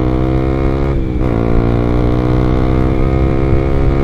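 Honda CBR150R single-cylinder engine through an R9 aftermarket exhaust, pulling under acceleration while riding: the pitch climbs, drops briefly about a second in at an upshift, then climbs steadily again.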